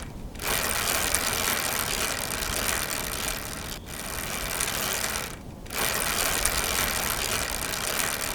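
Steady rushing noise of riding a bicycle, wind and tyre noise on the camera, dropping out briefly three times.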